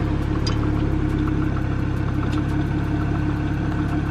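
BMW 335is's twin-turbo N54 straight-six idling steadily.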